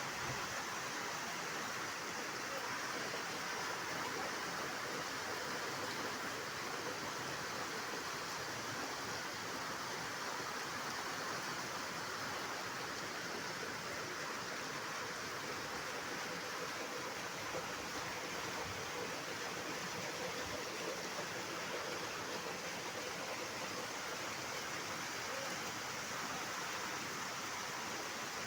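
Running water rushing steadily, an even unbroken noise.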